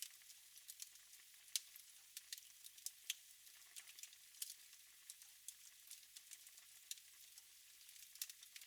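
Wood fire crackling in a fireplace: irregular sharp snaps and pops over a faint, steady hiss.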